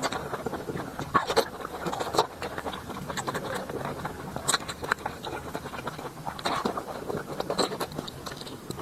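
Close-miked eating sounds of a person chewing braised pork large intestine: irregular wet smacking and mouth clicks.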